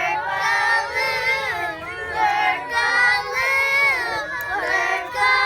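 Several children singing sing-song calls at once, their voices overlapping in different pitches and tunes.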